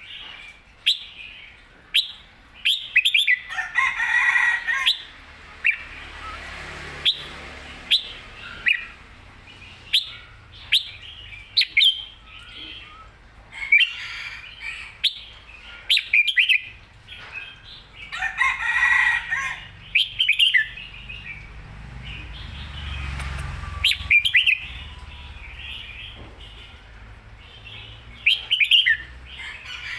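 Red-whiskered bulbul singing: short, bright, whistled chirps and phrases repeated over and over, with two longer, fuller calls at about 4 and 19 seconds in.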